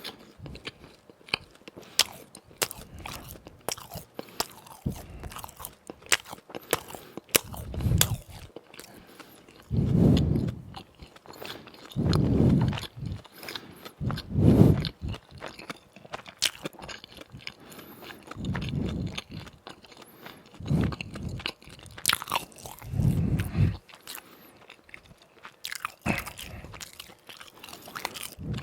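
Close-miked eating of crispy fried doughnuts: crunchy bites with many sharp crackles, and muffled chewing every couple of seconds.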